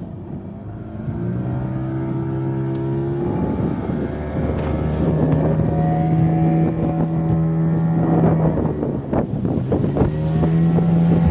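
A fishing boat's engine running under way, its pitch and loudness stepping up about a second in and again around five seconds in, with wind buffeting the microphone.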